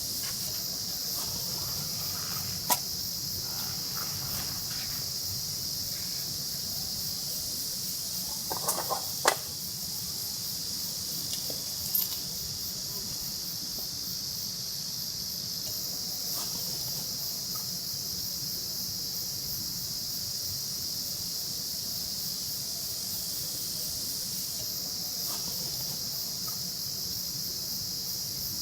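Steady, unbroken high-pitched chorus of summer insects, with a few light handling clicks and knocks about 3, 9 and 12 seconds in.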